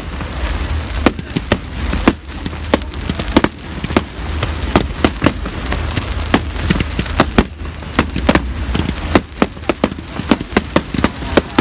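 Fireworks display going off: an irregular, fast run of sharp bangs and crackles, several a second at times and thickest in the last few seconds, over a steady low rumble.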